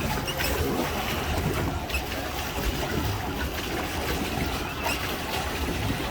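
Water churning and lapping around a pedal boat under way, with wind buffeting the microphone as a steady uneven rumble.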